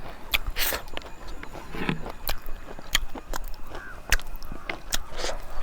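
A person eating close to the microphone: chewing, with frequent short mouth clicks and lip smacks at an irregular pace.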